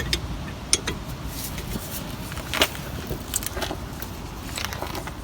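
Scattered sharp metallic clicks and clinks of a 14 mm spanner being fitted to and worked on a brake caliper slider bolt, a few each second, the loudest about 2.6 seconds in.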